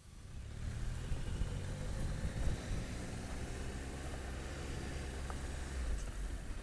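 Triumph Tiger 1200's three-cylinder engine running steadily as the motorcycle rides, with wind and road noise. It builds up over the first second.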